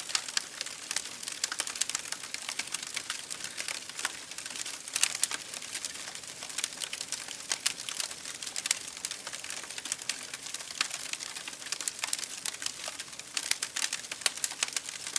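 Wood fire in an open fireplace crackling and popping, with many small irregular pops and a few sharper ones over a soft steady hiss.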